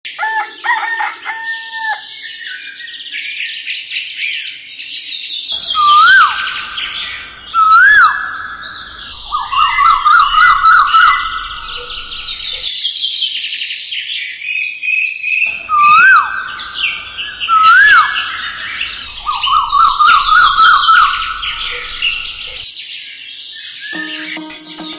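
Songbirds chirping and twittering, with loud swooping whistled calls that come in pairs and fast trilling runs between them. Music begins near the end.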